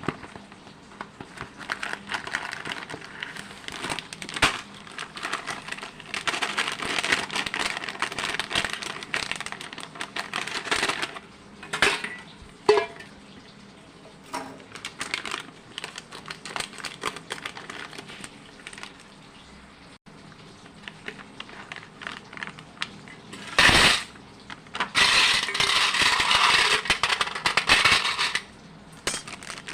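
Kitchen handling sounds: dishes and utensils clinking and clattering, with crackling, in irregular bursts and a sharp louder clatter about two-thirds of the way through.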